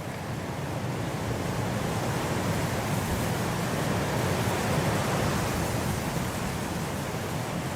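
Blizzard wind blowing as a steady rushing noise that swells to a gust about five seconds in, then eases slightly.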